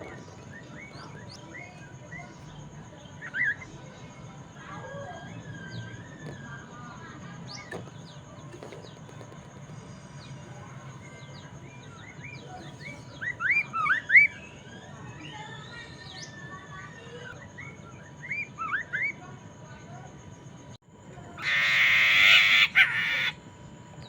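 Black-throated laughingthrush (poksay mandarin) singing in short bursts of quick rising whistled notes, with quieter warbling between them and the loudest runs about halfway through and again a little later. Near the end comes a harsh, noisy burst about two seconds long, the loudest sound.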